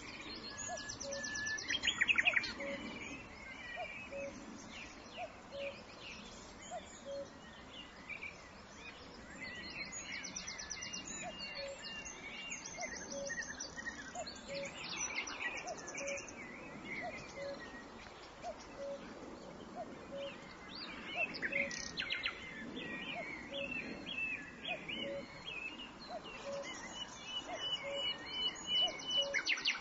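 Many wild birds chirping and trilling together, with a loud rapid trill about two seconds in. Under them a frog repeats a short low call about every three-quarters of a second.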